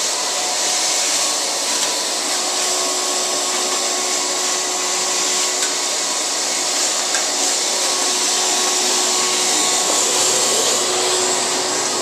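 Vacuum cleaner running steadily, a constant rushing hiss of air with a faint motor whine.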